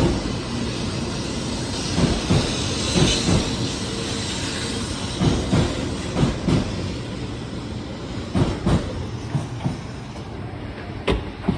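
Shinkansen 700-series Hikari Rail Star train rolling past the platform: a steady rushing hiss with its wheel sets clacking over the track in paired thumps every two to three seconds. The sound eases off as the last car passes near the end.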